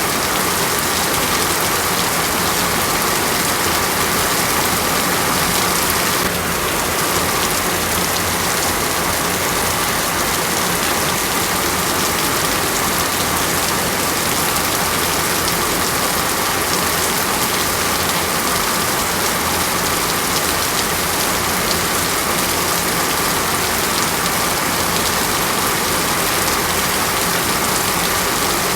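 Steady rain falling, an even hiss with no breaks; the level dips slightly about six seconds in.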